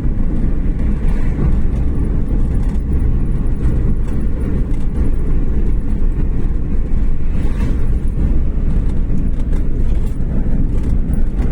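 A moving car's steady low rumble of engine and road noise, with no clear changes.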